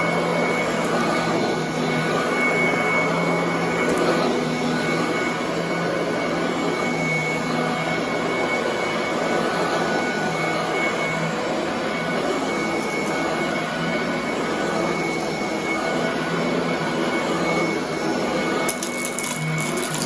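Commercial vacuum cleaner running steadily on carpet, with a steady hum and whine. A rapid crackle of clicks starts near the end.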